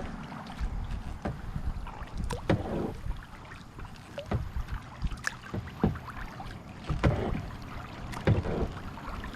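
Kayak paddle strokes in lake water: the blades dip and splash in a steady rhythm, about one stroke every second or so, with dripping water between strokes.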